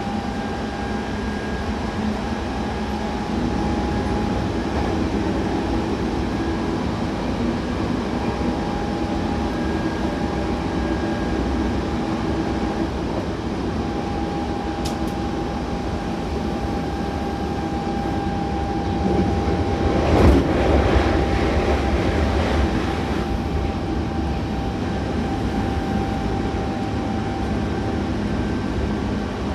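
Hankyu Takarazuka Line electric train running between stations, heard inside the car: a steady rumble with a steady whine over it. About twenty seconds in, a louder rattling clatter lasts a few seconds.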